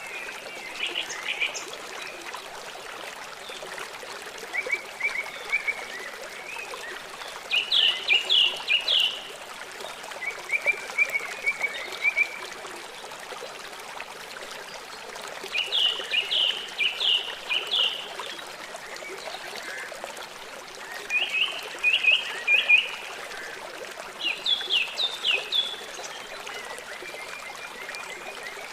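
Small birds chirping in short bursts of three to five quick, sharp notes, about seven bursts a few seconds apart, over a steady hiss of trickling water.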